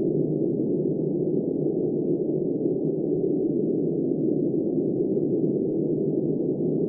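Steady, muffled rush of blizzard wind, even in level with no gusts or separate sounds, all of it low-pitched and dull.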